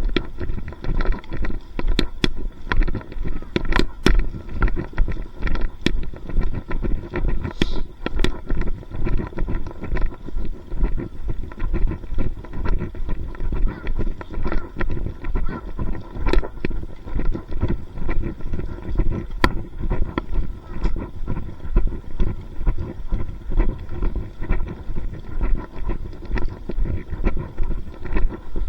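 Footsteps at a steady walking pace, about two a second, with low rumbling wind and handling noise on the microphone and a few sharp clicks.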